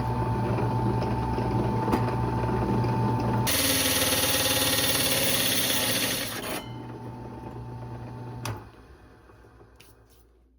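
Drill press motor running with a steady hum while the bit cuts into thin sheet metal, a harsh grinding hiss for about three seconds in the middle. Near the end the press stops with a knock and winds down.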